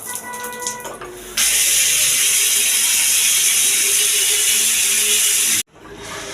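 Water spraying from a newly fitted bathroom mixer, heard as a loud steady hiss that starts abruptly about a second and a half in and cuts off suddenly near the end.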